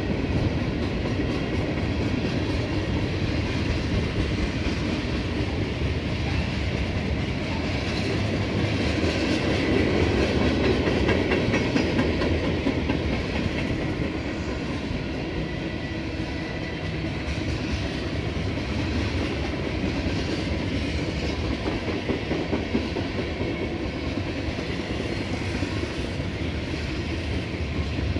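Freight cars of a mixed freight train rolling past at a steady pace: tank cars and hoppers rumbling, their wheels clacking on the rails, a little louder about ten seconds in.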